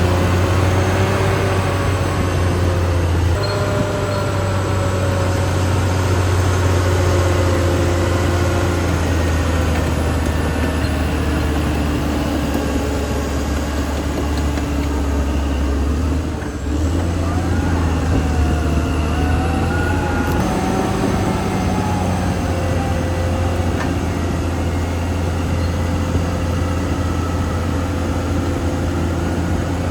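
Caterpillar D6R XL crawler bulldozer running steadily while grading: a deep diesel engine hum with wavering higher tones from the machine and its tracks. The sound dips briefly about halfway through, then carries on.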